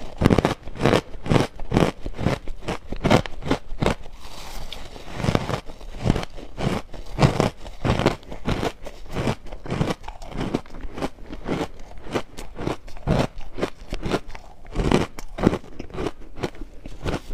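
Crushed ice being bitten and chewed close to the microphone: a steady run of loud, crisp crunches, about three a second.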